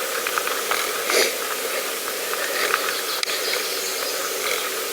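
Pedal bicycle rolling along a path: a steady hiss of tyres on the surface, with small rattles and clicks from the bike.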